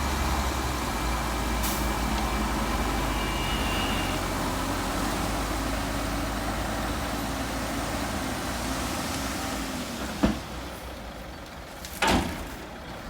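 Heavy sand truck running with a steady low engine rumble. About ten seconds in there is a sharp knock, and near the end a louder short burst.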